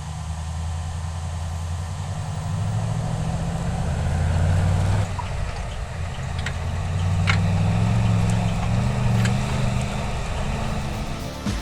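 Engine of a 2023 Chevrolet Colorado pickup, a 2.7-litre turbo, running under varying throttle. Its pitch and loudness climb, dip about five seconds in, then climb again. A few sharp clicks are heard partway through.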